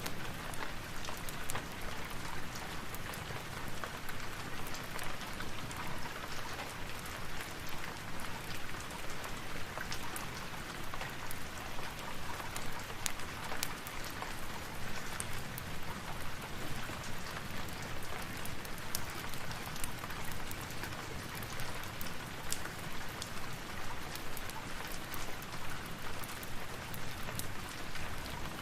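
Steady rain falling, with many small sharp crackles scattered through it from a wood fire burning.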